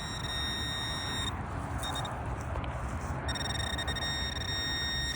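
Metal detector sounding a steady, high electronic tone twice, each about two seconds long with a pause of about two seconds between them, signalling metal under the coil: the dropped find being located again. Low background rumble underneath.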